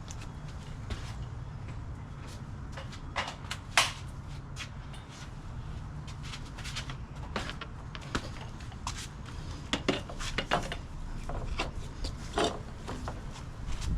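Scattered clinks and knocks of tools and parts being handled during suspension work. The loudest comes about four seconds in, and several more follow close together around ten to twelve seconds, over a low steady hum.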